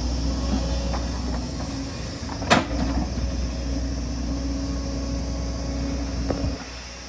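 Excavator's diesel engine running steadily, with one sharp clank about two and a half seconds in and a few lighter knocks. The engine sound drops away near the end.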